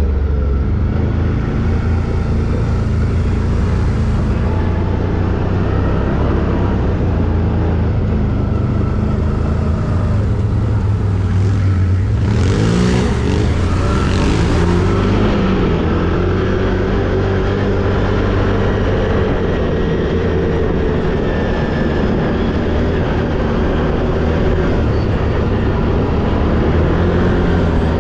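Quad bike (ATV) engine running steadily while riding, its pitch rising and falling with the throttle around the middle. There is a few seconds of hissing noise at the same point.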